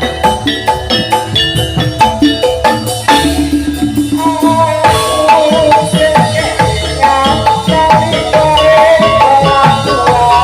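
Javanese gamelan-style music of a barongan troupe played loud through a sound system: fast, rhythmic struck metallophone notes over drums. A wavering held melody line joins about halfway through.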